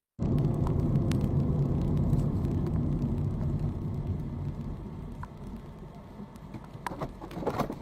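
Steady low rumble of a car's engine and road noise, louder for the first three seconds and then easing off, with a few light knocks near the end.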